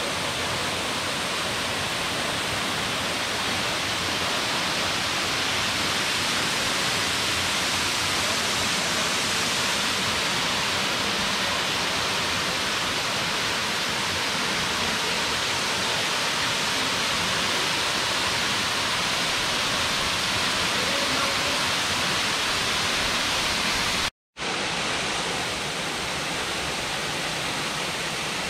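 Waterfall rushing: a steady, dense noise of falling water, briefly cut off once near the end where the recording is spliced.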